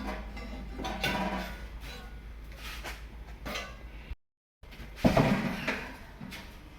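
Metal serving spoon scraping and knocking against a large pot and dish while cooked biryani is scooped out, in several separate strokes. The sound drops out completely for a moment about four seconds in, and the loudest clatter follows right after.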